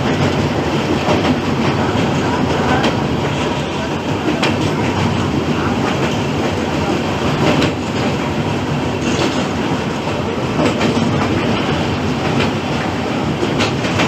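Passenger train running along the track: a steady rumble of the moving coach, with the wheels clicking over rail joints.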